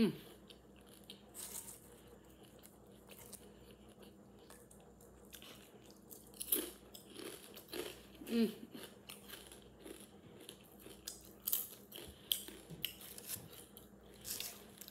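Close-up chewing and crunching of crunchy chips with the mouth closed, irregular crisp crunches with a few louder bites scattered through.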